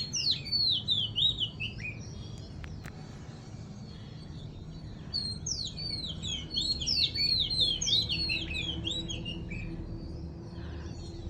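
A small songbird singing rapid series of high, repeated chirping notes, each note curving up then down, about four a second. It sings in two bouts: the first ends about two seconds in, and the second runs from about five seconds to nine and a half seconds in.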